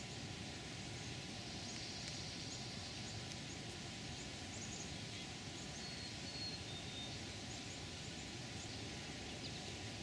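Faint high-pitched bird chirps and a few short thin whistled calls, scattered throughout, over a steady background hiss.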